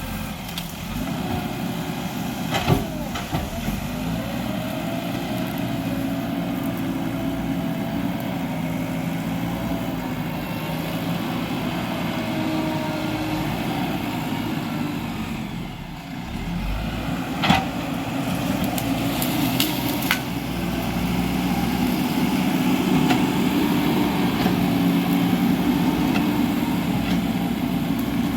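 JCB 3DX backhoe loader's diesel engine running under working load, its pitch and loudness rising and easing, with two sharp knocks, one a few seconds in and another past halfway.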